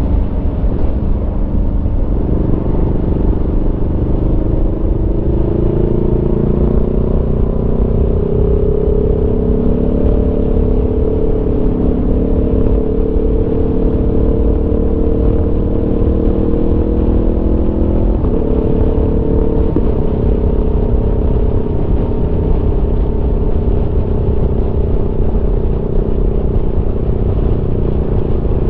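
Aprilia Tuono V4 motorcycle's V4 engine running under way, its pitch climbing slowly for about fifteen seconds, then jumping abruptly twice a little past halfway before running fairly steady, over a constant low rumble.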